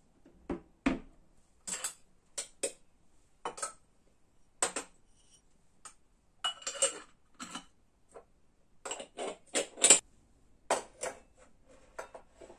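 Dishes and cutlery being handled: a string of irregular clinks and knocks, the loudest about ten seconds in.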